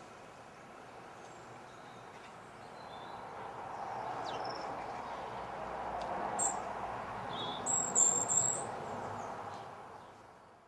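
Garden birds chirping: a short high chirp about halfway through, then a quick cluster of loud, bright chirps a little later. Under them, a low rushing background swells in the middle and fades near the end.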